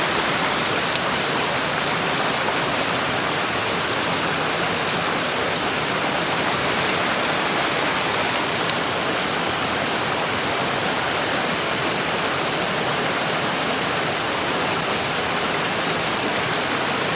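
Steady rush of a mountain creek's flowing water close by, with two brief sharp clicks, about a second in and again about halfway through.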